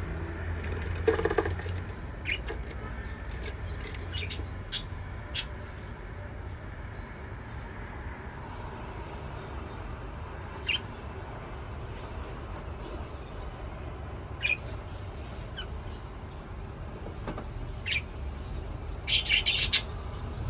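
Pet budgie chirping in short, scattered single chirps with long gaps between them, and a quick flurry of chirps near the end, over a steady low hum.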